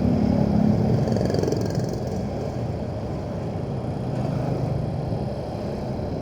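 Motorcycle engine running while riding in slow, dense traffic, a little louder for the first couple of seconds and then steady, over road and wind rumble.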